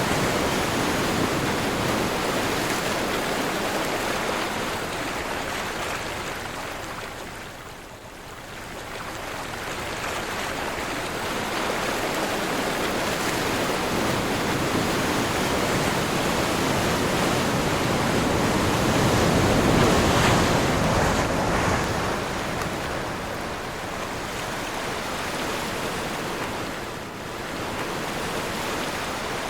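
Ocean surf in a strong wind, a steady rush that ebbs to its quietest about a quarter of the way in, then builds as a wave surges to its loudest about two-thirds through before falling back.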